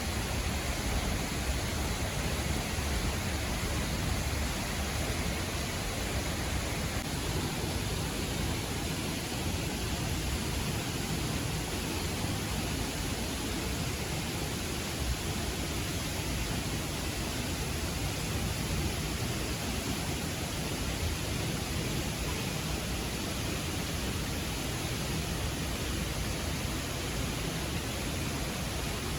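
A 32-metre waterfall pouring into a river gorge: a steady, even rush of falling water.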